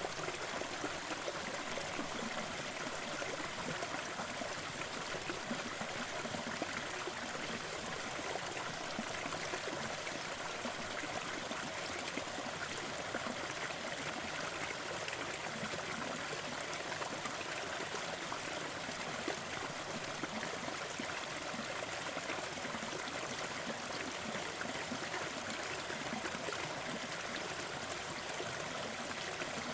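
Waterfall with the steady rush and splash of falling water, unchanging throughout.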